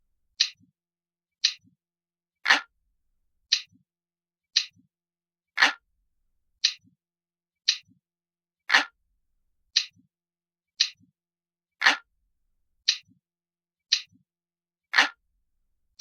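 Ticking clock sound, about one tick a second, with every third tick louder and deeper than the two between.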